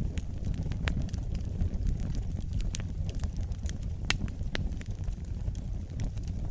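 Wood fire burning in a fireplace: a low steady rumble of flames with irregular sharp crackles and pops, the loudest pop about four seconds in.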